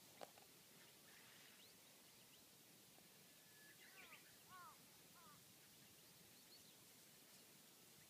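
Faint bird calls over near silence: a short run of quick, downward-sweeping whistled notes about halfway through, with a light click near the start.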